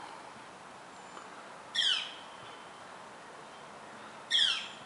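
A bird calling twice, about two and a half seconds apart. Each call is a short, sharply falling note.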